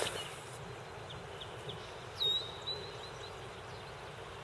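A songbird calling over a steady background hiss: a few faint chirps, then about two seconds in a single clear whistled note that drops sharply and holds briefly.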